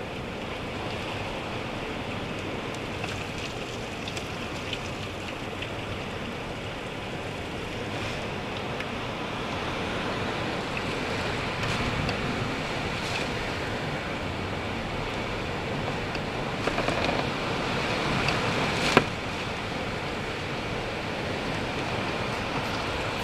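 Hurricane Irma's wind and rain in a steady rush that slowly grows a little louder, with one sharp knock about three-quarters of the way through.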